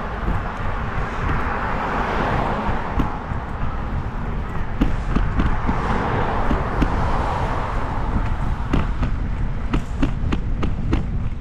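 Wind rumbling on the microphone with road and traffic noise from a bicycle ride. In the last few seconds a run of quick, sharp clicks comes in over the noise.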